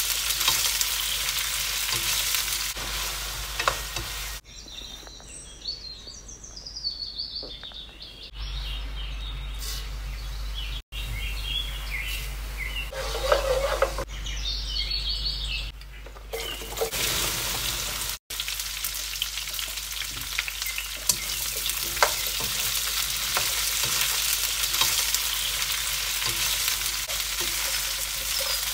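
Cut okra frying in oil in a non-stick wok, a steady sizzle with a plastic spatula stirring and scraping the pan. In a quieter stretch near the middle, cumin seeds sizzle more softly in hot oil, with a few short high chirps.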